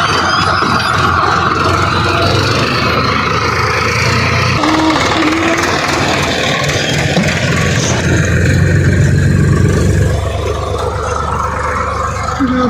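Swaraj 744 XT tractor's three-cylinder diesel engine running steadily under load, getting louder and heavier for a couple of seconds past the middle before easing off.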